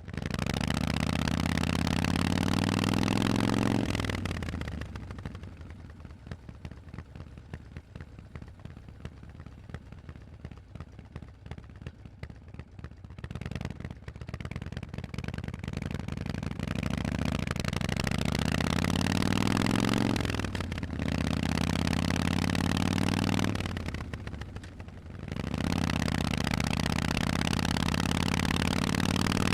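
Harley-Davidson Forty-Eight's V-twin with Vance & Hines exhausts, ridden and accelerating, its pitch rising in each gear. The throttle closes about four seconds in and the engine runs quietly for several seconds. It then pulls up through the gears again, with brief drops in sound at the shifts.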